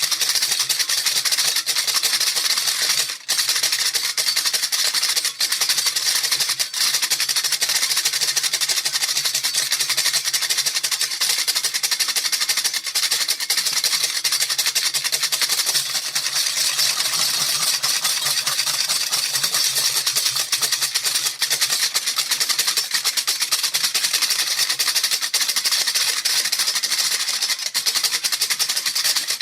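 A handheld rattle shaken steadily and rapidly, its beads making a continuous dense hiss of fine clicks, with a brief break about three seconds in.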